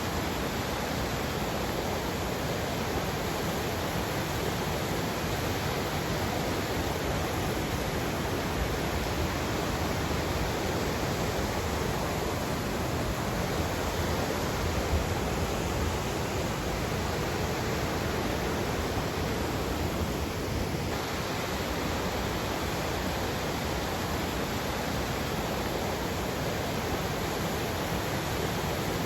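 Steady rushing of river water, an even unbroken noise with no birds or other events standing out.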